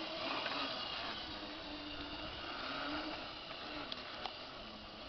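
Electric-converted garden tractor driving along, its electric motor and drivetrain running with a steady hum and faint higher whine.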